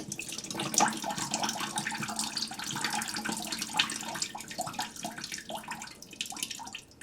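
Leftover water from a toilet tank running out through the loosened supply-line connection and splashing into a trash can below, the flow thinning about six seconds in.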